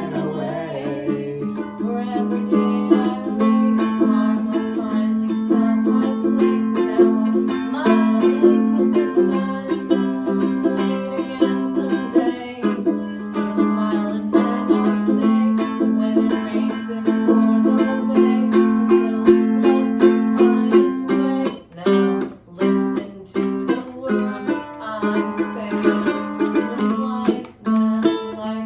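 Music played on a plucked string instrument: chords plucked in a steady rhythm, with a few brief breaks near the end.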